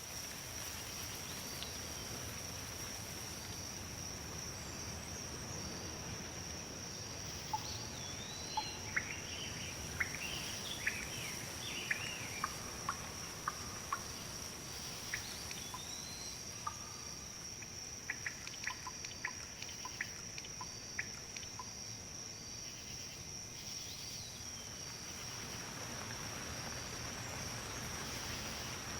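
Outdoor nature ambience: a steady soft rustle of wind in leaves under a continuous high-pitched insect drone. Small birds chirp on and off from about eight seconds in to about twenty-one seconds.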